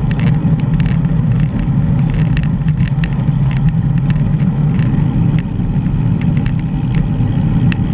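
Steady wind rumble buffeting a bike-mounted GoPro while riding, with frequent sharp clicks and rattles throughout.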